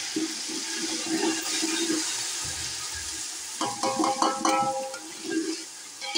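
Green chillies and sliced tomatoes sizzling in hot oil with fried onions and whole spices in a large steel pot. The hiss slowly dies down as the wet pieces settle. About three and a half to four and a half seconds in, a metal spoon knocks and scrapes against the pot a few times.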